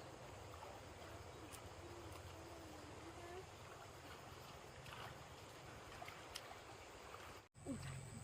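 Faint steady outdoor background noise with soft water-like sloshing and a thin wavering tone in the first few seconds. It cuts out abruptly for a moment near the end.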